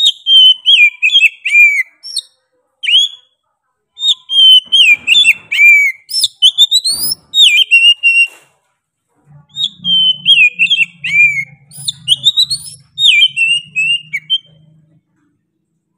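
Oriental magpie-robin (kacer) singing hard: loud phrases of clear, quick whistled notes, many sliding downward, mixed with fast upward sweeps and chirps, broken by short pauses.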